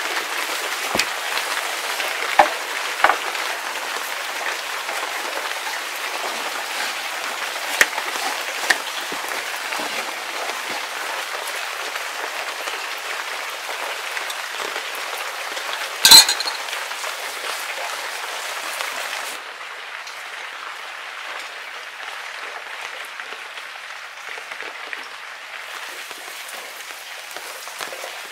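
Steady hiss of light rain falling, with a few short knocks of a wooden rolling pin on a wooden board early on and one loud, sharp metallic clink about sixteen seconds in.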